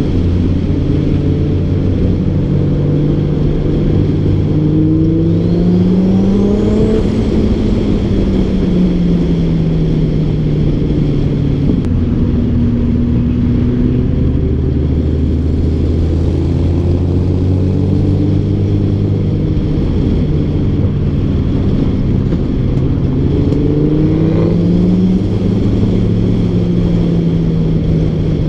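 Car engine running while driving. Its pitch climbs as it accelerates and then eases back down, once a few seconds in and again near the end, over steady road and wind noise.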